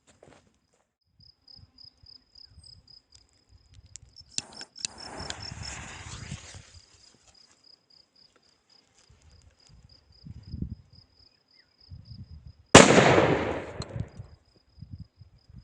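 Super Cubanito trueno firecracker: a fuse hisses for about two seconds, then some six seconds later comes a single very loud bang that echoes away over a second or so. Crickets chirp steadily in the background.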